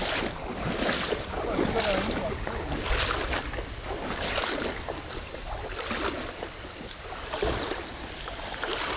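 Creek water sloshing and splashing in repeated strokes roughly once a second, over a steady noisy wash with wind on the microphone.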